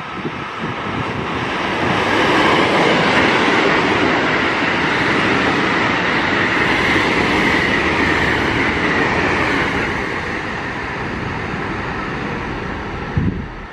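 JR West electric multiple-unit passenger train running past a station platform: a steady rush of wheels on rail with a whine. It swells to its loudest over the middle seconds, then fades, with a brief knock near the end.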